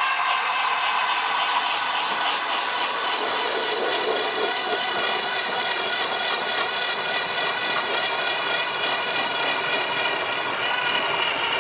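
Power ice auger drilling a fishing hole through lake ice, its motor running at a steady high pitch under load. The pitch rises a little near the end.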